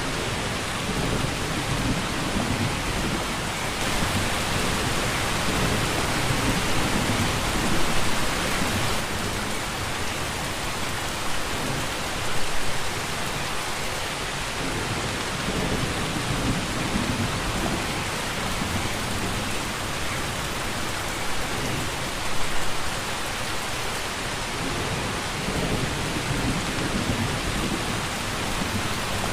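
Steady heavy rain falling, with low rumbles of distant thunder rolling in several times and a few brief louder swells.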